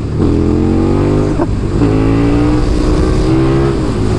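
KTM 1290 Super Duke R's V-twin, breathing through an Akrapovič exhaust, accelerating hard in third gear for a power wheelie. The engine note climbs steeply for about a second, dips, climbs again for nearly two seconds, then drops off near the end.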